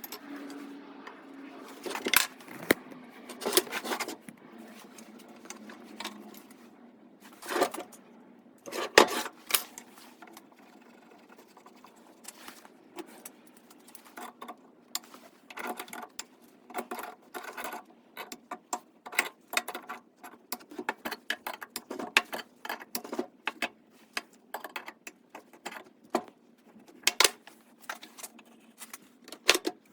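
Workshop handling noise: irregular metallic clicks, clinks and knocks of tools and metal parts being picked up, set down and worked, with a faint steady hum in the first few seconds.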